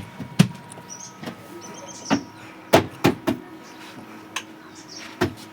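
Washing machine being handled: about seven sharp clicks and knocks, irregularly spaced, over a faint steady hum.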